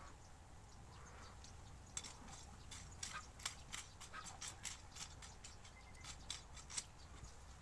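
A rapid run of short, sharp clicks, several a second, starting about two seconds in and stopping near the end.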